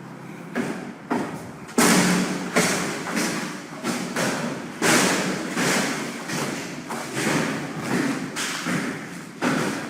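Demolition work inside a building: a string of heavy thuds and knocks at an irregular pace of about one or two a second, each ringing briefly in the room. The loudest comes about two seconds in.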